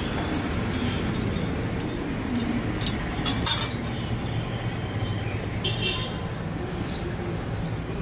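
Light metallic clinks and taps of gas stove burner parts being handled and fitted, a few sharp ones in the middle, over a steady low background hum.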